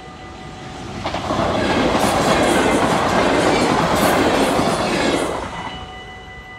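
A double-deck electric passenger train rushes through a level crossing at speed. The sound builds about a second in, holds loud for about four seconds and fades away near the end. Under it the crossing's warning bells ring steadily.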